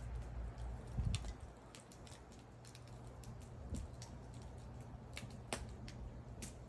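Burning wood fire crackling, with irregular sharp pops, the strongest about a second in and near the end, over a low rumble.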